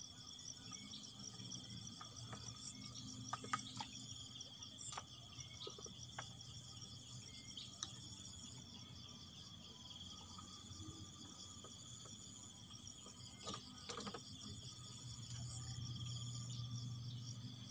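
Insects chirring steadily: a continuous high-pitched drone with a fast pulsing trill above it, over a low hum, with a few faint clicks.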